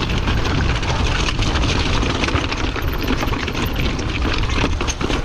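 Mountain bike riding over a rough trail: a steady rumble of wind on the microphone and tyres on the ground, with frequent small knocks and rattles from the bike.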